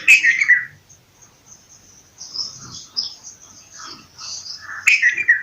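Bulbuls calling: a loud, downward-sliding call at the start and another near the end, with softer, higher chirps and chatter in between.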